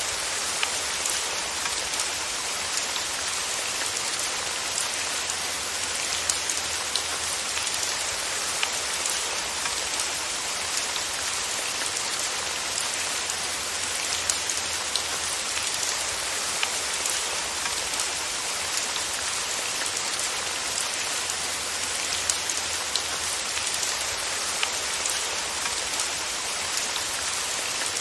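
Steady rain falling on a surface, an even hiss with many small drop ticks and no changes.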